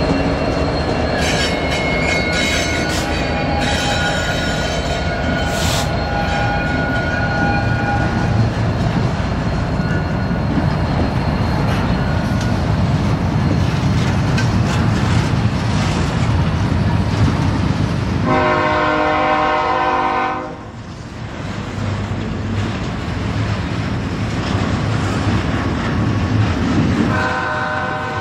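Norfolk Southern double-stack intermodal train rolling past: diesel locomotive rumble, then loaded well cars with steel wheels clacking and squealing on the rail. A locomotive's multi-chime air horn sounds for about two seconds two-thirds of the way through, and again near the end.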